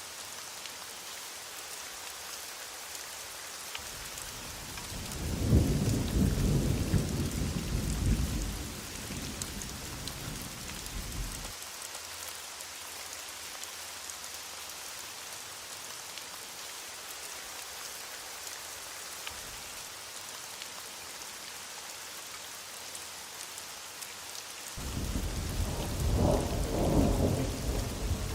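Heavy rain falling steadily, with distant thunder rolling twice: once from about four seconds in for some seven seconds, and again near the end.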